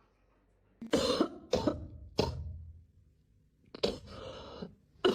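Coughing: three short, sharp coughs from about a second in, then a longer rasping hack near the end.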